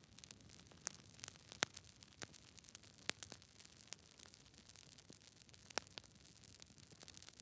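Campfire crackling: irregular sharp pops and snaps of burning wood over a faint steady hiss, with the loudest pops about a second and a half and three seconds in.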